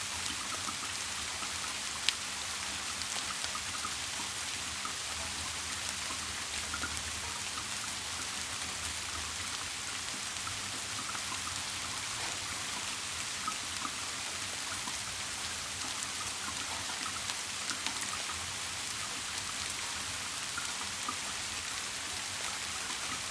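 Steady rain falling: an even hiss with scattered small drip ticks, and one sharper tick about two seconds in.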